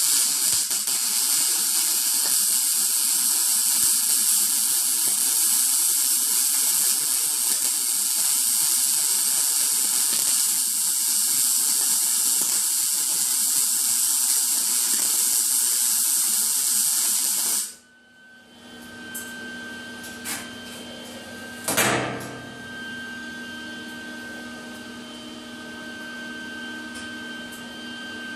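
MIG welding arc, run with argon/CO2 shielding gas, giving a loud, steady hiss for about eighteen seconds before cutting off suddenly. After it a quieter steady hum continues, with a single knock a few seconds later.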